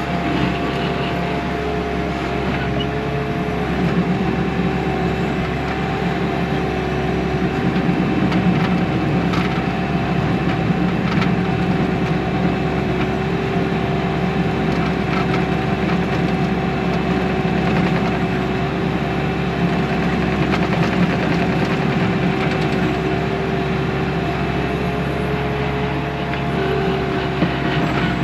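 Bobcat T630 compact track loader's diesel engine running steadily at working revs, with a steady whine over it, as the machine digs and moves dirt.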